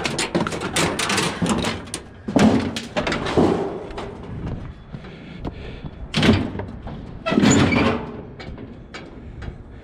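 Scrap being handled and thrown: a quick clatter of hard knocks for about two seconds, then four heavy bangs, each ringing briefly.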